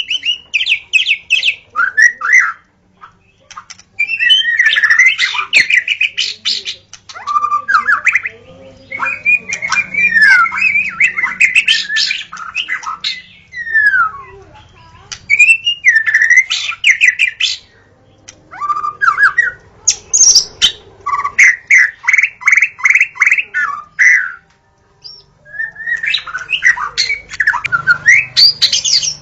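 White-rumped shama (murai batu) singing: loud, varied phrases of whistles, trills and harsher notes, broken by short pauses. About two-thirds of the way through comes a run of quickly repeated notes.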